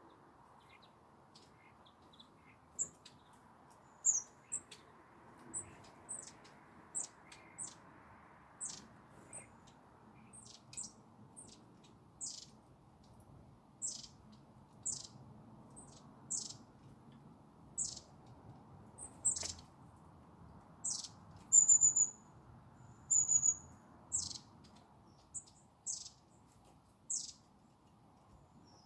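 Small birds giving short, sharp, high-pitched calls, each dropping quickly in pitch, repeated about once a second. The loudest are two brief, level whistled notes about three quarters of the way through.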